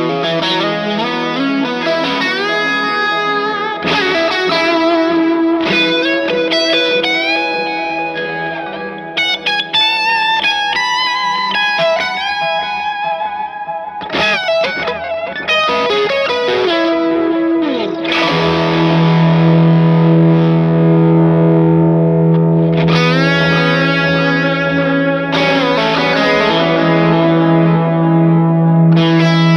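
Electric guitar (a Fender Stratocaster through an overdrive pedal, the Sonicake Sonic Ambience delay and reverb pedal and a Vox AC30 amp) played with a driven tone, notes and chords ringing on with delay and reverb. A low note is held under the playing from a little past halfway on.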